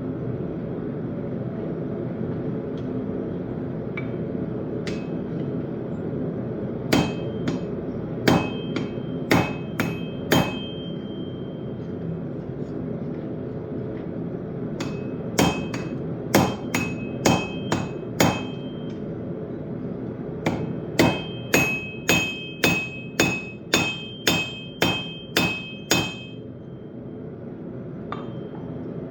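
Hand hammer striking hot steel on an anvil in three bursts of forging blows, the last a quicker run of about ten strikes, each blow followed by a short metallic ring. A steady low rumble continues underneath.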